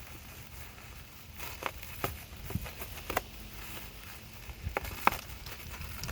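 Irregular crackles and sharp clicks of packaging being handled and pulled off a used engine, strongest about five seconds in.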